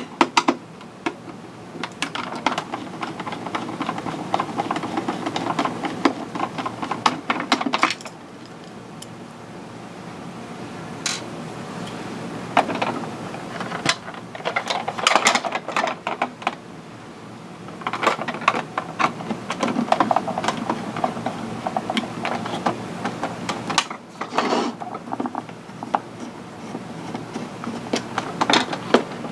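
Hand tools working on a plastic toy's casing to take it apart: bursts of rapid clicking and scraping, like screws being backed out with a screwdriver, with quieter spells between.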